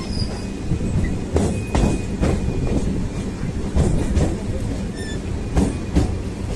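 Suburban electric local train running, heard from its open doorway: a steady rumble of the wheels on the track with irregular clicks and clacks as they cross rail joints.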